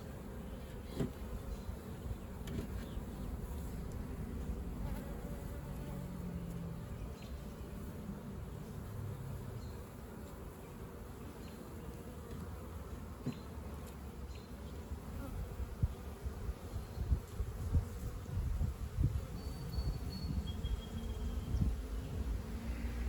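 Honeybees buzzing around a hive, with single bees droning past close by now and then. The buzzing grows louder and more uneven in the last several seconds.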